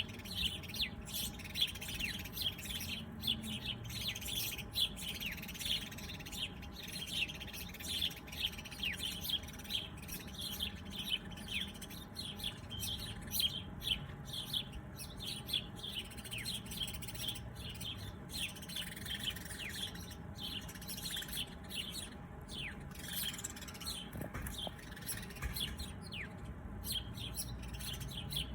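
Many small birds chirping, a dense run of short, quick, high chirps that overlap without a break, over a faint low background rumble.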